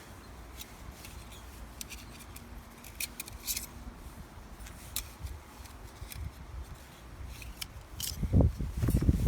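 Small stainless-steel folding fire pit being handled: scattered light metal clicks and ticks, with heavier bumps of handling near the end.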